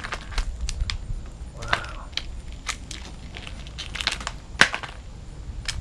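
Irregular crackling and snapping clicks of a microwaved tablet's heat-damaged plastic being handled, the loudest snap about four and a half seconds in, over a steady low rumble.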